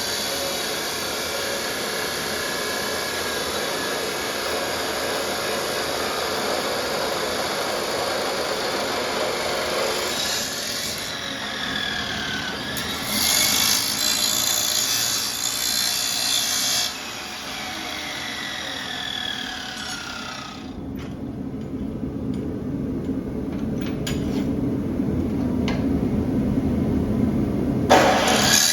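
Chop saw cutting through steel bar stock, then its blade spinning down with a whine that falls in pitch.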